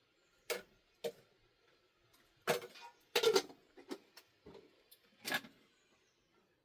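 A series of about eight irregular knocks and clicks, the loudest cluster near the middle.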